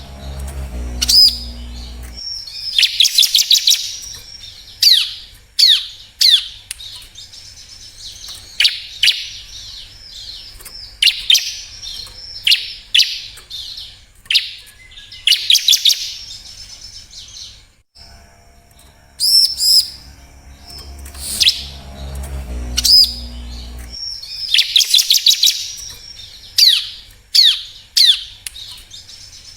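Bar-winged prinia (ciblek) calling in repeated bursts of rapid high chirps and sharp downward-sweeping notes. A low hum sits under the first two seconds and returns about two-thirds of the way through.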